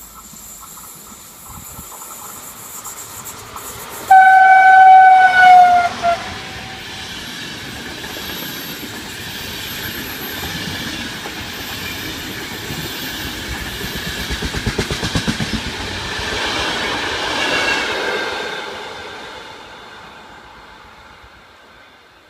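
Electric-locomotive-hauled Intercity train passing through a station. About four seconds in, the locomotive gives a loud horn blast that drops slightly in pitch as it ends. The coaches then rumble past with rapid wheel clicks over the rail joints, and the sound fades as the train moves away near the end.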